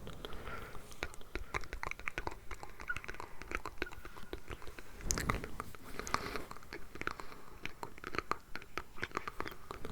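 Close-miked ASMR mouth sounds, layered over one another: a dense, irregular run of wet clicks and smacks.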